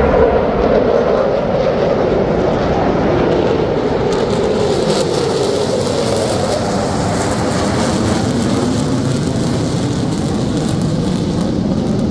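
Military aircraft flying past: a loud, steady roar whose pitch falls slowly as it passes.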